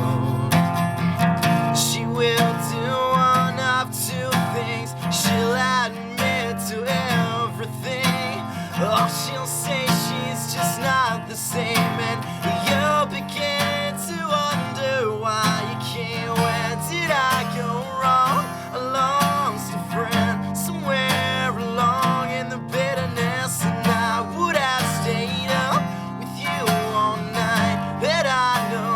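Acoustic guitar strummed steadily as a song accompaniment.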